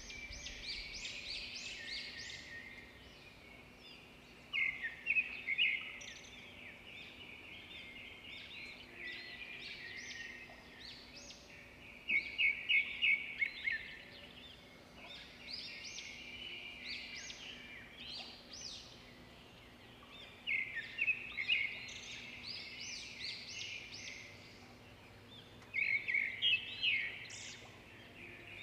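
Birds chirping in bursts of quick high notes every few seconds, over a faint steady low hum.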